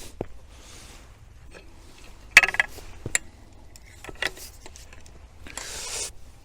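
Camera gear being handled: scattered clicks and knocks, a sharp ringing clink about two and a half seconds in, and a short rustle near the end.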